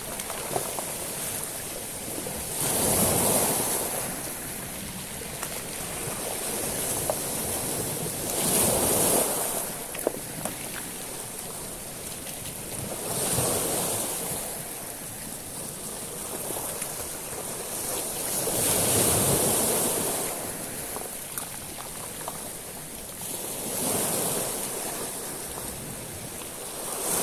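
Sea waves breaking and washing over a shingle beach of small stones, swelling about every five seconds, each surge bringing a loud hiss of water through the pebbles, with the odd sharp click of a stone.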